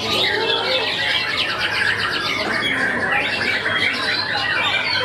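White-rumped shamas (murai batu) singing: a dense, unbroken run of fast, varied, overlapping phrases, over a steady low hum.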